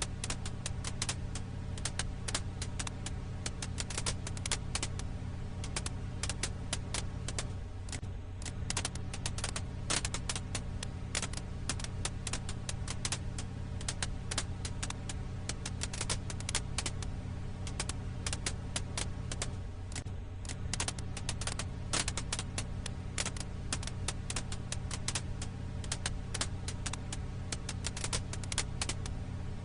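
Campfire crackle ambience: burning firewood popping and crackling in a dense run of quick small snaps over a steady low rumble.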